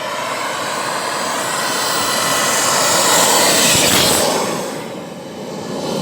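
Twin-turbine radio-controlled model jet, a homemade Tornado, flying past. The rushing turbine noise and high whine swell to a peak a little under four seconds in, then fade.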